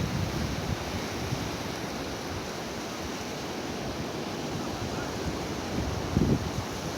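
Ocean surf washing on a sandy beach, a steady rushing noise, with wind buffeting the microphone in low rumbles that grow stronger about six seconds in.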